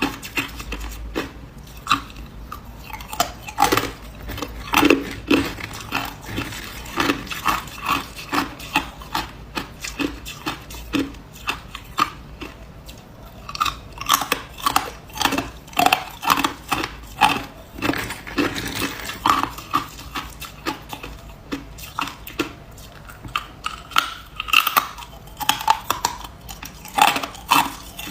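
Close-miked crunching of ice being bitten and chewed: rapid, irregular cracks and crunches, several a second, with short pauses between mouthfuls.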